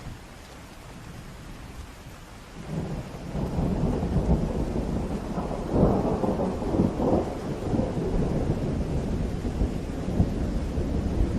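Steady rain, with a long roll of thunder that builds up about two and a half seconds in and keeps rumbling over the rain, loudest around the middle.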